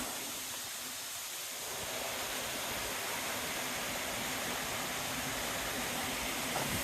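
Small creek waterfall rushing steadily.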